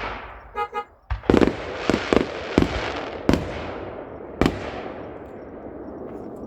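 Fireworks bursting: a loud bang at the start, then a quick run of about seven sharp bangs over the next three and a half seconds, their rumble echoing and slowly fading away.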